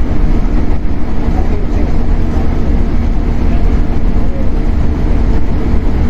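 Running noise inside a Shinano Railway 115-series electric motor car (KuMoHa 115-1013): a steady low rumble of wheels on rail with a constant hum from the traction motors and gears, held at an even speed.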